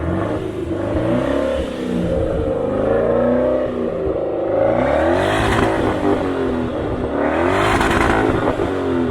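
Maserati 3200 GT's twin-turbo 3.2-litre V8 being revved repeatedly from idle, its pitch rising and falling, with the two highest revs about five and eight seconds in.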